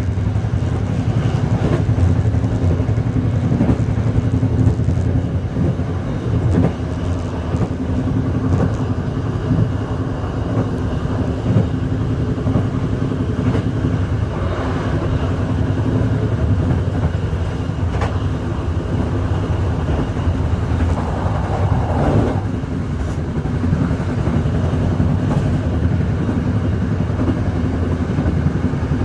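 Passenger train running along the track: a steady low rumble of wheels on rail, with a few sharp clicks.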